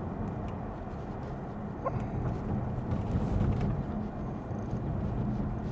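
Lexus ES 350 F Sport sedan driving, heard from inside the cabin: a steady low road and tyre rumble with a faint engine hum and a few light ticks.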